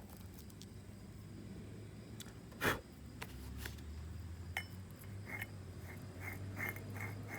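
Handling of snowblower friction-disc parts: one sharp knock a few seconds in, then a run of light clinks, over a low steady hum.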